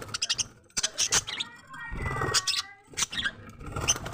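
Birds calling and fluttering, heard as short, irregular bursts of rustling with brief chirps among them.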